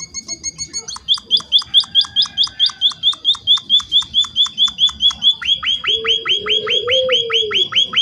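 Emprit (munia-type finch) calling in a fast, even run of short high chirps, about six a second, the kind of insistent chatter used to lure other emprit into calling back. About five seconds in the notes drop to a lower sweeping chirp, and a low wavering coo-like tone joins underneath.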